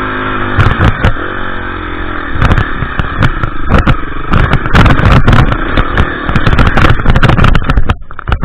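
KTM EXC 350 four-stroke single-cylinder enduro engine running hard off-road, its pitch rising and falling with the throttle. Many sharp knocks and bangs come through over rough ground. The engine drops away near the end.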